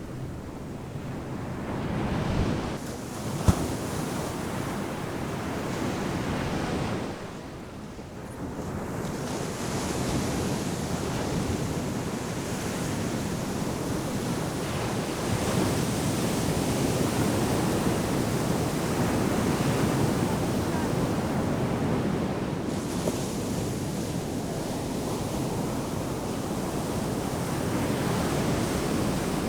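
Ocean surf breaking and washing up a sandy beach, a continuous rushing wash that swells and ebbs with each set of waves. A single sharp click about three and a half seconds in.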